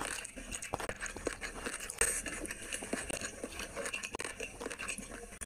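Close-miked chewing and wet mouth clicks of a person eating rice and curry by hand, a dense run of small smacks with a sharper one about two seconds in.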